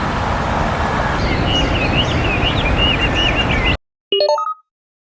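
Outdoor field ambience: a steady low rumble with a small bird's quick chirping notes over it in the second half. About four seconds in the sound cuts off, and a short electronic chime of a few rising notes follows.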